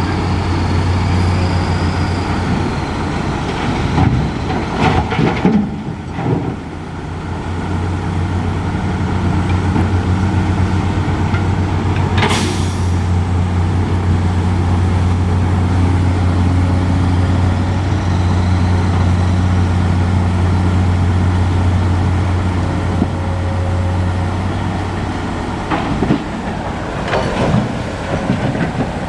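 Heavy diesel truck engine running steadily with a deep, even drone. Clattering knocks come about four to six seconds in and again near the end, with one sharp bang in the middle.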